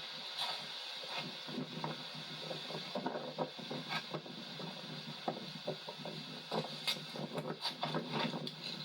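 A tire-patch stitcher roller being worked over a freshly glued valve-stem patch on a rubber inner tube, making many small irregular clicks and rubbing sounds as it presses out trapped air.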